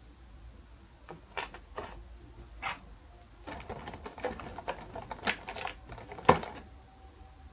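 Hands handling a boxed action figure and its packaging: an irregular string of clicks and short rustles, with one sharper knock near the end.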